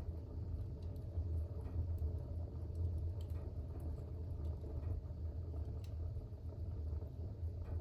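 Fire burning in a fireplace: a steady low rumble with scattered faint crackles and pops.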